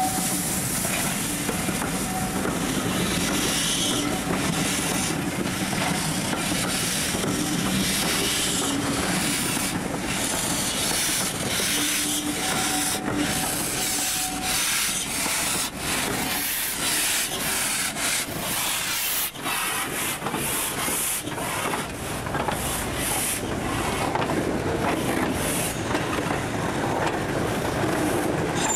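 Railway passenger coaches rolling past slowly, with wheels clicking and rubbing on the rails and a steady hiss. Short sharp clicks come thick and fast in the second half.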